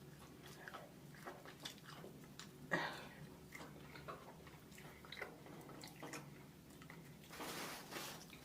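Mukbang eating noises: chewing with scattered small clicks and crackles of seafood shells being handled, one sharper click about three seconds in, and a brief rustle shortly before the end.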